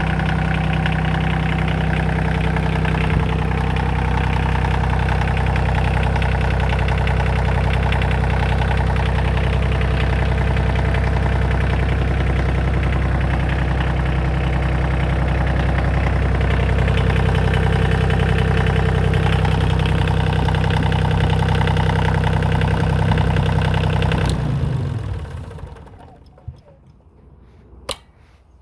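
The 20 kW engine of a hydraulic power pack running at a steady speed, then shut off about 24 seconds in and running down within a second or so. Two short clicks follow in the quiet.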